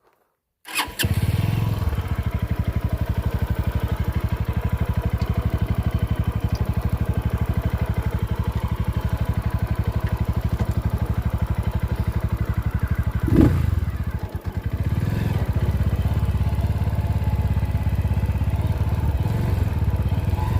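Motorcycle engine running at idle with an even, low pulsing beat; it begins abruptly just under a second in. About thirteen seconds in there is one brief louder surge, like a short blip of the throttle.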